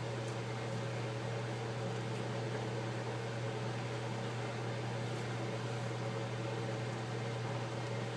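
Steady machine hum with a low drone and an even hiss, like a fan or small motor running.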